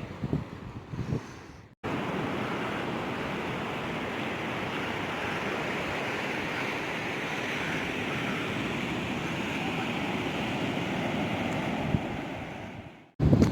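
Steady rushing wash of sea surf, starting abruptly about two seconds in and fading out near the end.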